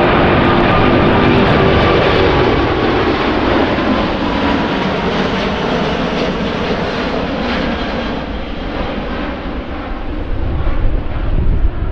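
Jet airliner's engines passing close by, a loud rushing roar with a high whine that is strongest at first and then slowly fades. Wind buffets the microphone near the end.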